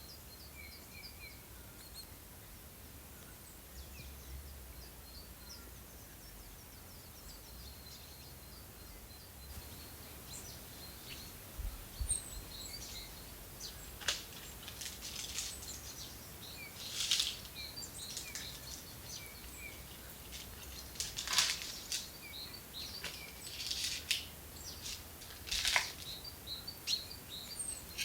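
Small birds chirping: many short, high chirps over a faint steady outdoor hiss. From about halfway, several brief, louder sharp sounds break in, the strongest about three quarters of the way through.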